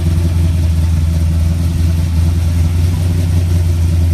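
A car engine idling close by: a steady low drone that does not change.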